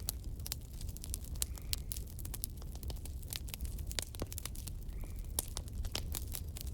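Burning logs in a fireplace crackling, with many sharp irregular pops and snaps over a steady low rumble of the flames.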